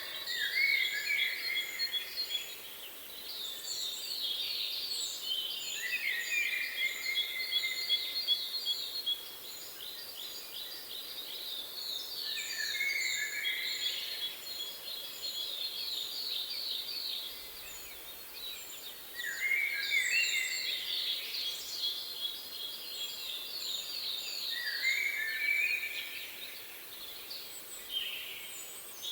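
Several songbirds singing and calling together: fast rattling trills of repeated notes, thin high chirps, and short falling phrases that keep overlapping, over a steady background hiss.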